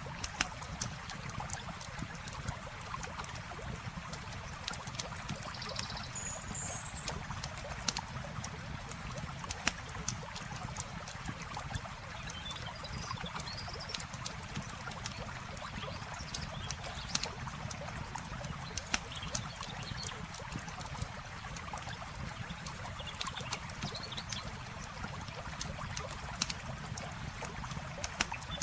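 Campfire crackling, with frequent sharp pops over the steady rush of flowing river water. A few faint high chirps come through now and then.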